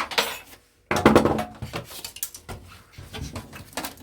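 Metal parts of a stripped-down electronic device being handled and worked with hand tools: a sharp knock, then from about a second in a busy run of clattering, clicking and scraping.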